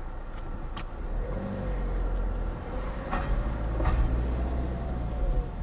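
Car engine pulling away and accelerating, heard from inside the cabin: a low rumble that grows about a second in, with an engine note slowly rising in pitch. A few short knocks come through along the way.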